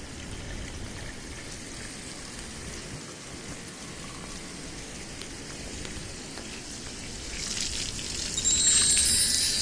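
Steady rush of running water. Higher chirping tones come in near the end.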